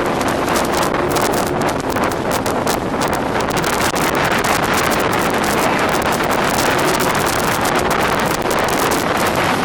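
Heavy wind buffeting the microphone of a speedboat under way, with the boat's engine running at a steady pitch and the hull's water rush underneath.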